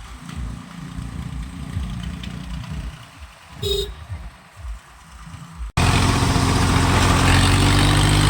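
Tractor diesel engines running with an uneven low rumble, and a short beep about three and a half seconds in. After a sudden cut near six seconds in, one engine is much louder and runs steadily, its pitch starting to rise near the end.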